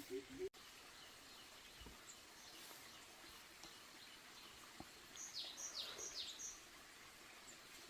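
Faint outdoor background hiss. A low, quickly repeated call cuts off suddenly in the first half second. About five seconds in, a bird gives four quick high chirps, each falling in pitch.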